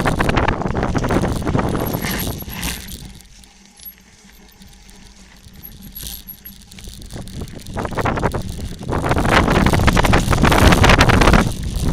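Bicycle rattling down a rough dirt trail, with a rush of wind on the microphone. It eases off to a quiet stretch for a few seconds in the middle, then the rattle and wind build up loud again as speed picks up.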